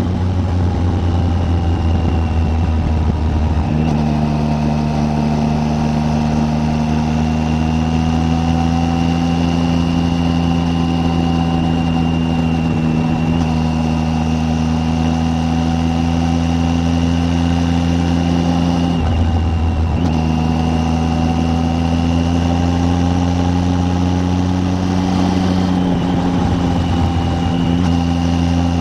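Triumph Tiger 800's three-cylinder engine running steadily on the road, its note breaking briefly three times as gears change: about four seconds in, around twenty seconds and near twenty-six seconds.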